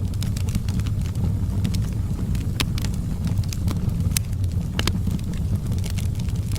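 Wood fire in a fireplace: sharp, irregular crackles and pops over a steady low rumble of burning.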